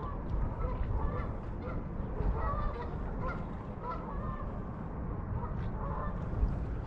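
Honking bird calls, repeated many times, over a steady low rumble.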